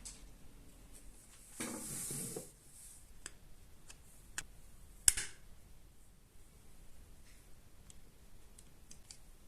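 Quiet handling sounds: scattered light clicks, a short rustle or hiss about two seconds in, and one sharper click about five seconds in.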